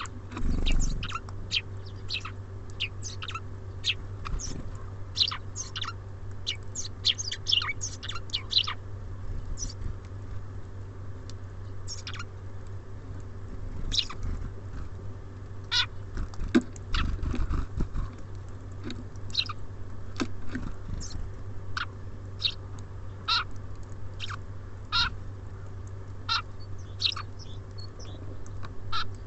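Small songbirds at a feeder making many short, sharp chirps, in quick runs for the first nine seconds and more spaced out after that, over a steady low hum. There are a few low thuds near the start and again in the middle.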